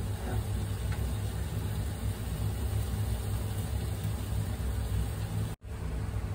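Shrimp frying in butter in a covered pan: a steady sizzling hiss over a low rumble, which cuts out for a split second near the end.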